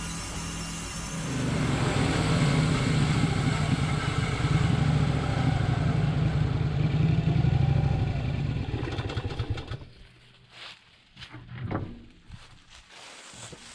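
Engine of a Norwood Lumbermate portable band sawmill running, stepping up to a louder steady run about a second in and holding it until it drops away about ten seconds in. A few short knocks follow near the end.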